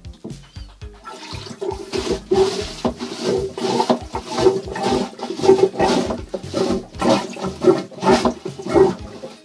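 Hand-pumped marine toilet being flushed. Its lever pump is worked in steady strokes, about two a second, each stroke pushing water through the bowl in a gurgling rush.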